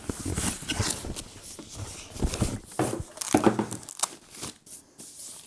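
Packing material and box rustling, crinkling and scraping as a subwoofer is unpacked by hand, with irregular knocks, busiest about halfway through.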